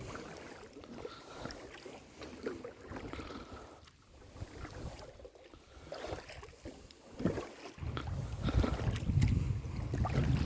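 Kayak paddle strokes dipping and splashing in calm lake water, with small drips and knocks. About eight seconds in, a low rumble of wind on the microphone comes in and grows louder.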